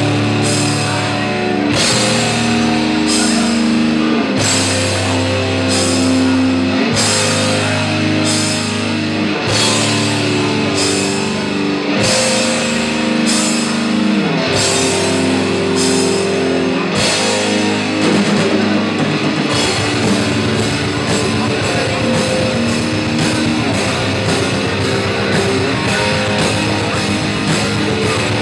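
Death metal band playing live: slow, heavy distorted chords with a drum and cymbal hit about once a second. About two-thirds of the way in it breaks into fast, dense playing.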